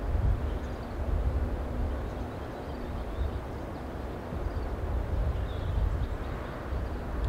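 Strong wind buffeting the microphone: a gusting low rumble that swells and eases every second or two, with a few faint high chirps above it.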